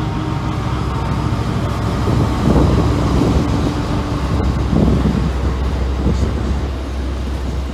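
SCT Logistics diesel-electric freight locomotive CSR023 passing at speed, its engine giving a steady low drone, with wagon wheels rumbling on the rails and swelling louder about two and a half and five seconds in.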